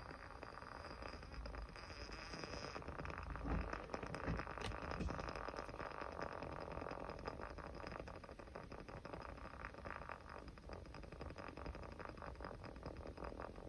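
Small wood fire crackling, with a steady stream of irregular small snaps and pops and a few dull bumps about four seconds in.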